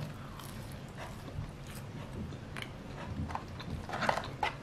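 A person chewing a mouthful of McDonald's French fries close to the microphone, with soft wet mouth clicks and smacks now and then, a few more of them in the second half.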